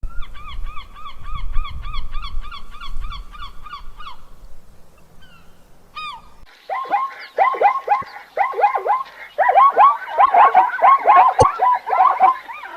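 Birds calling: first one bird repeating a short call about four times a second over a low rumble. After a short pause, a flock takes over with many short, falling calls overlapping one another.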